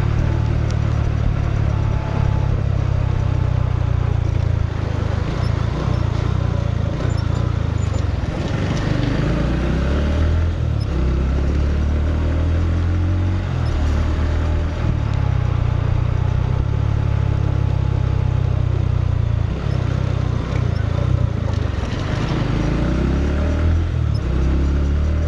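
Motorcycle engine running steadily while riding, with noise from the road and passing air; the engine note shifts up and down a couple of times.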